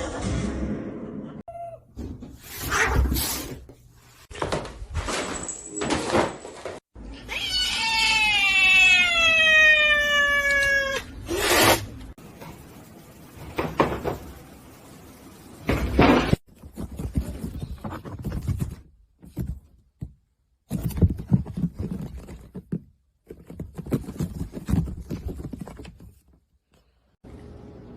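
Domestic cats meowing in a string of short clips. About eight seconds in comes one long meow that falls in pitch over about three seconds.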